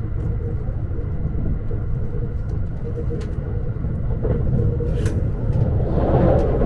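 Steady low rumble inside a car of the Thunderbird limited express train, with a few light clicks and a faint steady hum. It grows a little louder near the end.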